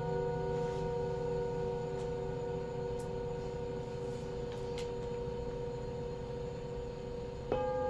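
Singing bowl ringing on with several steady overtones that slowly fade, then struck again near the end, starting a fresh ring.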